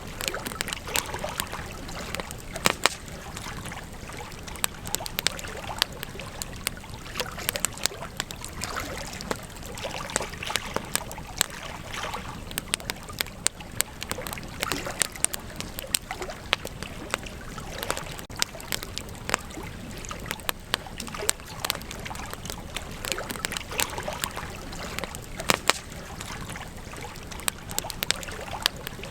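Wood campfire crackling, with frequent sharp, irregular pops and snaps over a steady low hiss of the burning fire.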